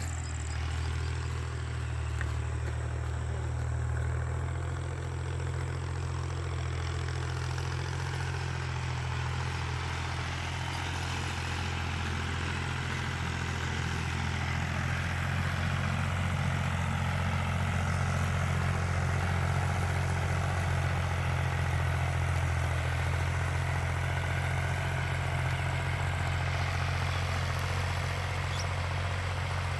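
Tractor's diesel engine running steadily with a deep, even drone, growing a little louder about halfway through.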